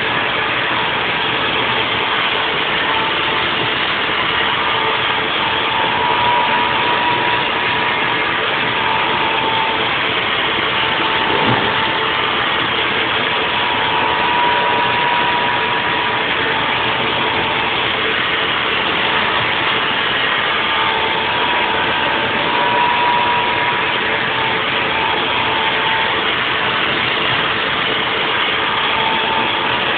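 Haas VF4 CNC vertical mill machining a nest block in 3D: a steady, loud machining noise with a steady hum and a higher whine that swells and fades several times as the cutter works.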